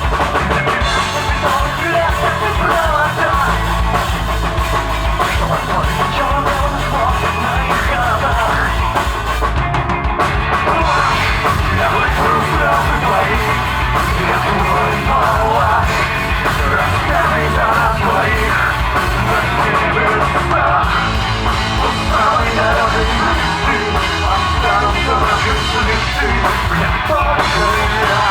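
Live alternative rock band playing a song, with a drum kit keeping a steady beat; loud and continuous.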